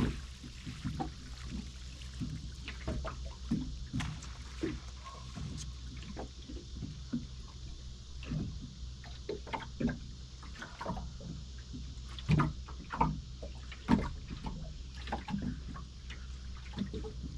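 A boat's engine running with a steady low drone, with irregular knocks and water splashes against the hull.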